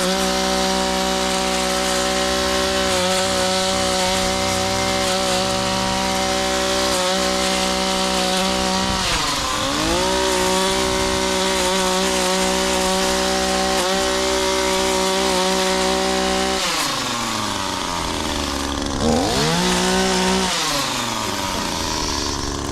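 Two-stroke chainsaw running at high revs, cutting wood with a steady high pitch. It dips briefly about nine seconds in, drops away after about seventeen seconds, then revs up once more and eases off near the end.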